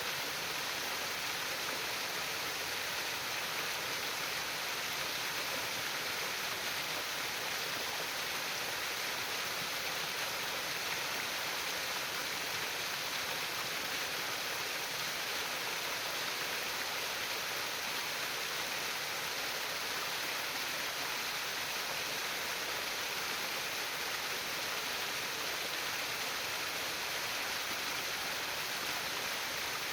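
Stream water trickling and babbling over stones, an unbroken steady rush.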